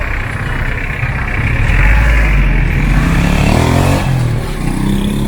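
A motor vehicle's engine passing close, its pitch rising and then falling, over a steady din of street noise.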